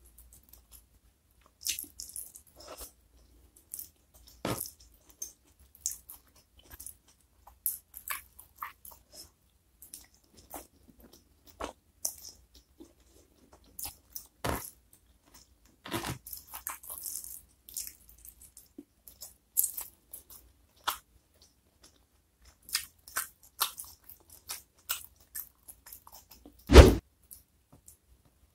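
Close-miked chewing and crunching of fried food eaten by hand, with irregular wet mouth clicks and crisp crunches. A single heavy thump near the end is the loudest sound.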